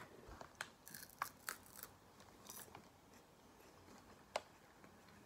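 Crispy seaweed snack being bitten and chewed: faint, scattered crunchy crackles, several in the first two seconds and one sharper one about four seconds in.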